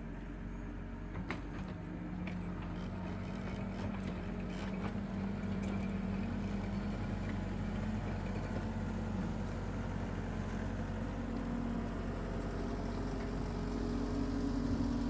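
Tractor engine running steadily under load while driving a power rake, its note rising a little near the end. A few sharp ticks sound in the first five seconds.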